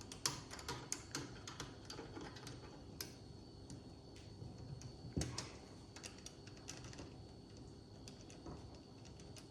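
Faint, irregular light metallic clicks and ticks of hand tools working the accelerator pump lever adjustment on a Holley carburettor, thicker in the first few seconds, with one sharper click about five seconds in.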